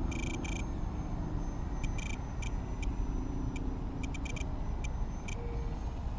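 Small RC model airplane propeller buzzing overhead, its pitch shifting as it flies past, over a steady low rumble. Short clusters of high clicks come and go.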